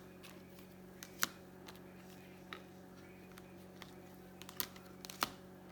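Baseball cards being handled: a few scattered light clicks and taps as cards are flipped and set down, over a steady low hum.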